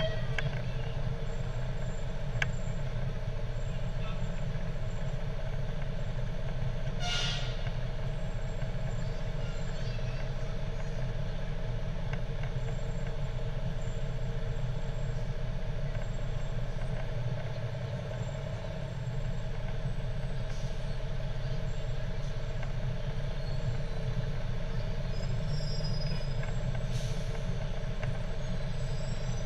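Fire truck engine running steadily with a low rumble and hum. A short air-brake hiss comes about seven seconds in, and a fainter one near the end.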